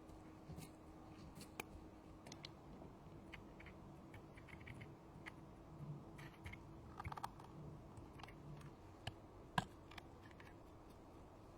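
Faint, scattered small clicks and taps of hand tools working on an iPhone, with one sharper click about two seconds before the end.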